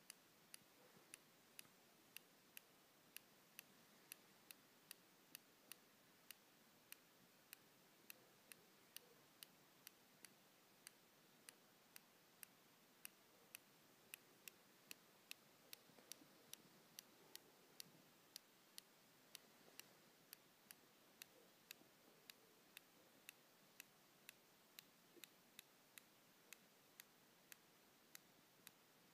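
Faint, sharp clicking from a Late 2013 Retina MacBook Pro, about two clicks a second at a slightly uneven pace, over a low hiss.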